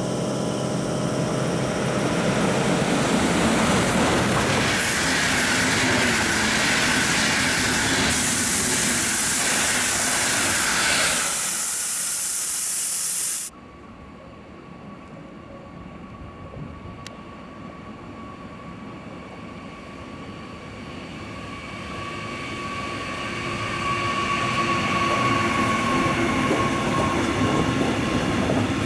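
A passenger train hauled by a DB class 182 electric locomotive rushes past with loud, even rolling noise that ends abruptly about halfway through. Then a freight train of tank wagons, headed by class 187 and 185 electric locomotives, approaches with a growing rumble and a faint steady whine, its wagons rolling past loudly near the end.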